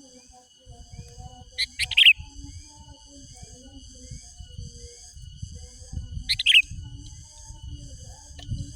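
Sooty-headed bulbul (kutilang) calling: two short, loud bursts of quick calls, about two seconds in and again about six seconds in.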